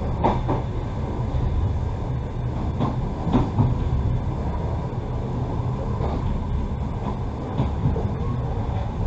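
Passenger train carriage running along the track with a steady low rumble, and a few wheel clacks over rail joints in the first half.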